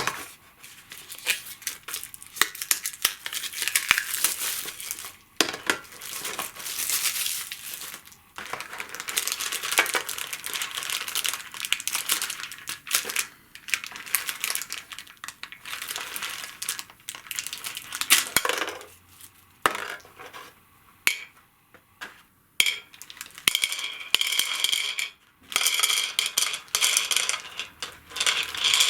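Board game contents being handled during unboxing: packaging crinkling and small hard game pieces clicking and clinking against each other, in a dense run of small clicks and rustles with short pauses.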